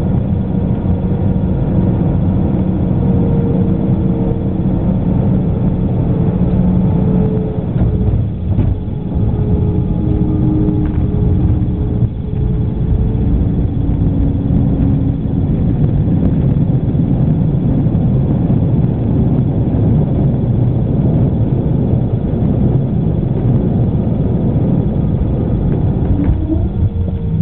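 Airbus A319 cabin noise during landing: a loud, steady rumble of jet engines and airflow, with engine tones that slowly slide in pitch. Brief knocks come about eight and twelve seconds in.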